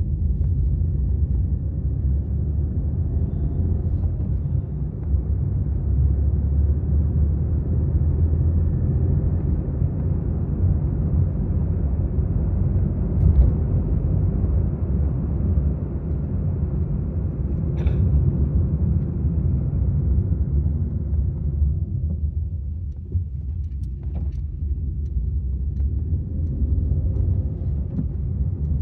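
Maruti Suzuki Swift VXi being driven: a steady low rumble of engine and road noise, which eases briefly about three quarters of the way through.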